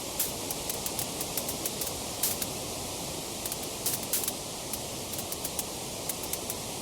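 Wood fire crackling: a steady hiss of flames with frequent irregular sharp pops and snaps, a few coming in quick clusters about two and four seconds in.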